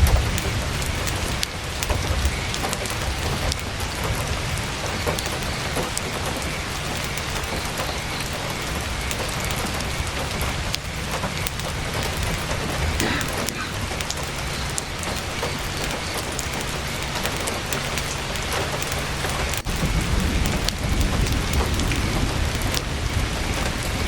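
Heavy rain on a tent's canvas, a dense steady patter with many sharp ticks and crackles through it. Underneath runs a deep low rumble that swells about twenty seconds in.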